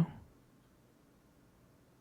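The end of a man's soft spoken phrase fades out in the first moment, then near silence.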